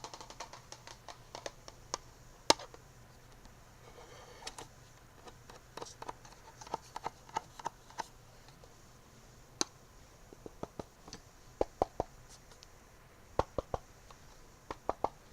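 Irregular light taps and clicks of fingernails on small hard objects, ASMR-style, coming in short runs of several quick taps, with one sharper click about two and a half seconds in.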